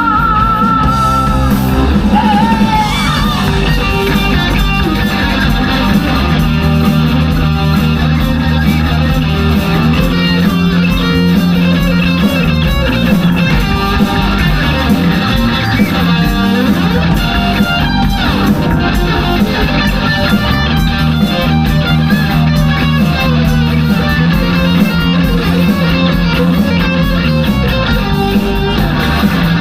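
Live rock band playing, with electric guitar prominent.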